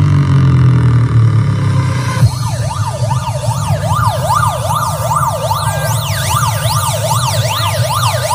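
Miniature sound-system loudspeakers playing a siren effect: a wailing tone sweeping up and down about twice a second starts about two seconds in, over a steady deep bass drone.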